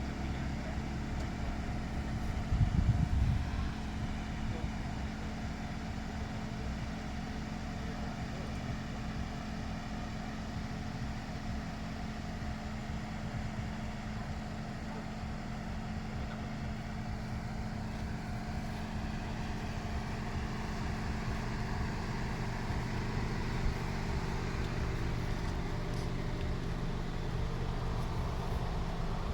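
A Lexus car running steadily, with a continuous low engine and road hum and a brief louder low rumble about three seconds in.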